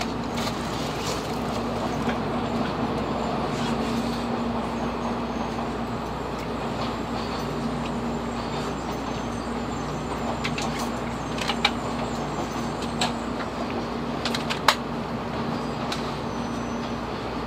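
Steady running noise heard inside a Tokaido Shinkansen passenger car, with a constant low hum under it. A few sharp clicks come in the second half, the loudest near the end.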